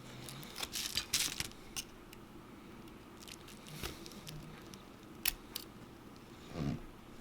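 Light clicks, taps and short scrapes of small repair tools and parts being handled on an iPhone 7 Plus opened for a screen replacement, with a cluster of clicks about a second in and a sharp click about five seconds in.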